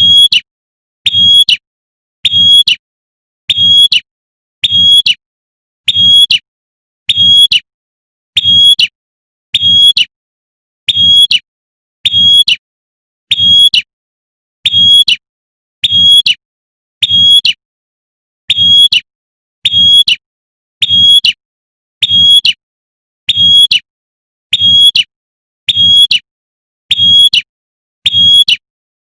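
Female prinia (prenjak) giving its sharp 'tembakan' call, a short high note repeated evenly about once a second, used as a lure to call in males.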